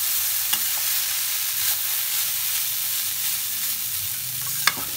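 Poha frying in a metal kadhai on a low flame: a steady sizzle under the scrape of a metal spatula stirring and turning it, with one sharp click of the spatula against the pan near the end.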